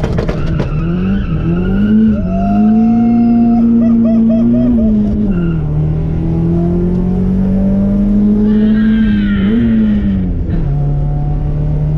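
Honda Accord four-cylinder engine revved through its newly installed exhaust. The revs rise and are held for a few seconds, drop, climb slowly and hold again, then settle back to idle near the end.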